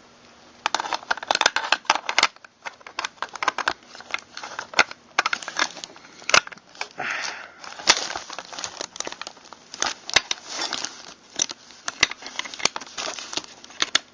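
Pump-action shotgun parts being fitted back together by hand during reassembly. Steel parts slide and seat in the receiver with many irregular sharp clicks, scrapes and rattles.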